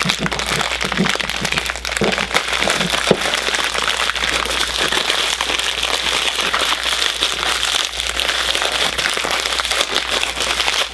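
Plastic bag crinkling and rustling without a break as a Funko Soda figure is worked out of its wrapper.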